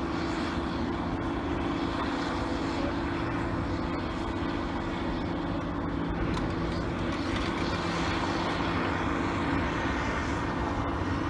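Komatsu PC400LC excavator's diesel engine running steadily with a constant hum and no sharp impacts.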